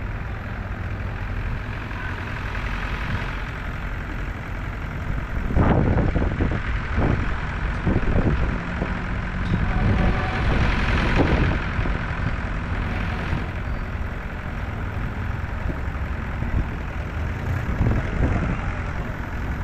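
Tractor engines running steadily as the vehicles move along, with several louder surges between about six and thirteen seconds in as machines pass close.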